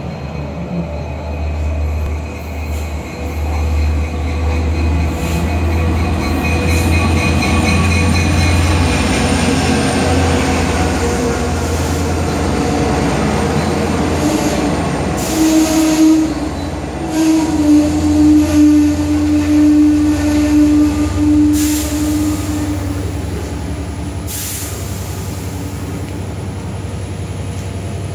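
A Long Island Rail Road diesel train of bilevel coaches pulls into a station: a heavy low engine rumble and rolling wheels grow and pass close by. From about halfway a steady brake squeal sounds as the train slows to a stop, with a few short hisses near the end.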